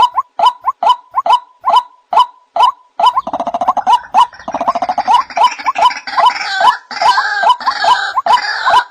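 White-breasted waterhen calls from a hunting-lure recording: a repeated 'kru-ak' about two to three times a second. About three seconds in, a denser chorus of overlapping calls joins and carries on.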